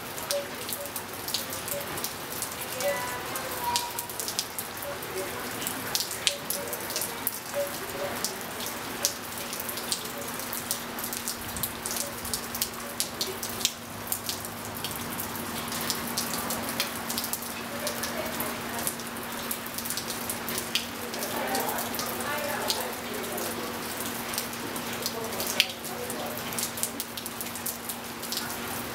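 Steady rain falling on a pool and a tiled patio, with many sharp individual drips. Wind chimes sound now and then in short clusters, about three seconds in and again past twenty seconds.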